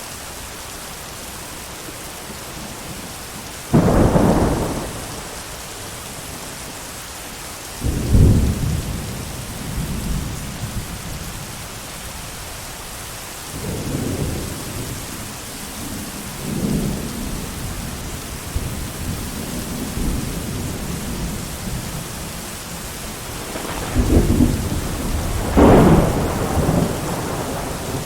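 Steady heavy rain with thunder: a sudden crack about four seconds in, another near eight seconds, softer rolling rumbles in the middle, and two loud claps near the end.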